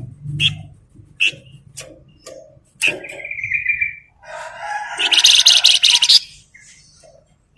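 Singing flamboyan, a songbird kept in Indonesian bird-keeping: sharp chirps, a held high trill about three seconds in, then a loud, harsh, rapid chatter for about a second.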